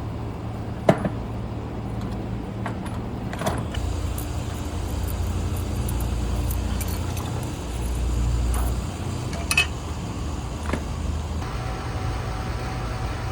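A few sharp metallic clinks and knocks as the old scroll compressor is worked loose and lifted out, over a steady low rumble.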